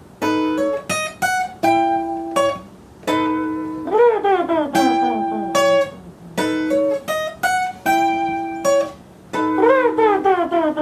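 Instrumental passage on acoustic guitar: short plucked chords broken by brief gaps, with a note sliding down in pitch about four seconds in and again near the end.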